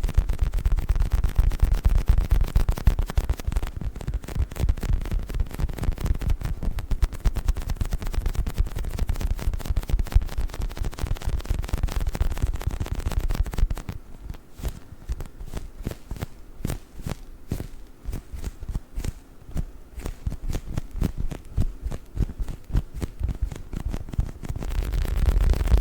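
Squishy dinosaur toy handled close to the microphone: a dense run of fast crackling, squishing contact sounds with a heavy low end, changing about fourteen seconds in to sparser, sharper quick clicks.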